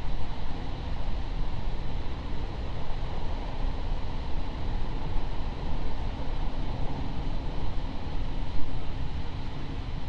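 JR East 701 series electric train heard from inside the car while running: a steady low rumble of wheels on rail with a faint steady hum over it.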